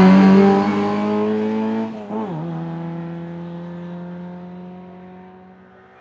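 Hill-climb competition car engine running hard as the car pulls away up the hill, its note fading steadily into the distance. About two seconds in, the engine note dips briefly and recovers, as at a gear change.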